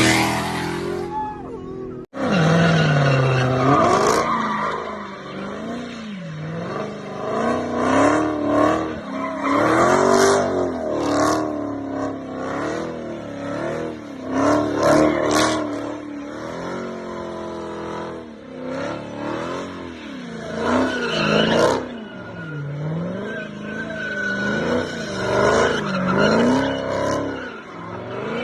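A Dodge Challenger's supercharged V8 revving up and down again and again, its pitch rising and falling every second or two, while the tires squeal as in a drift. An abrupt cut comes about two seconds in.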